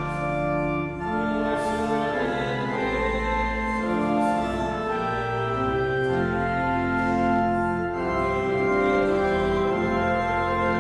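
Church organ playing a hymn in sustained chords that change every second or so.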